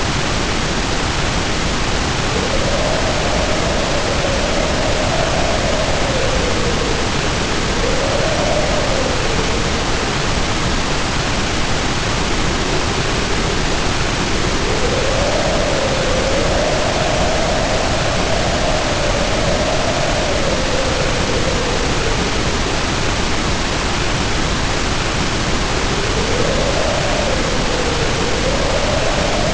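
Heavy rain pouring in a steady hiss, with wind howling over it in a slowly rising and falling pitch.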